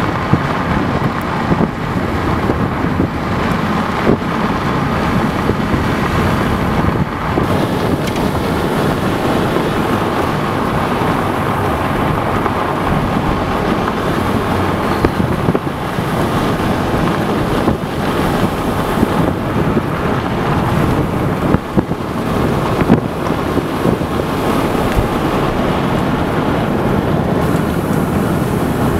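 Strong wind buffeting the camera microphone: a loud, steady rushing with a few short thumps scattered through it.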